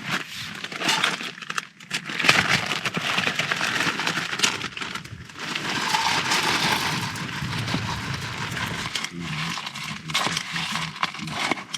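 Crunchy granola and its plastic packet being handled: a long run of irregular crackling and rustling that starts about two seconds in.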